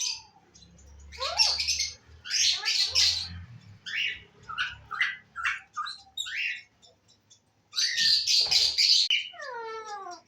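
Alexandrine parakeet calling: harsh high squawks in three loud bursts, with many short chirps between them, and a drawn-out call falling in pitch near the end.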